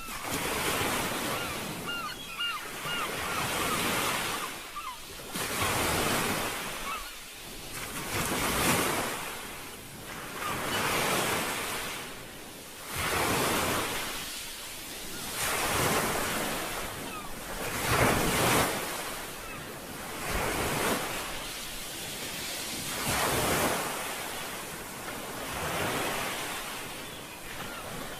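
Sea waves washing in and receding in a steady rhythm, each swell of surf rising and falling about every two and a half seconds.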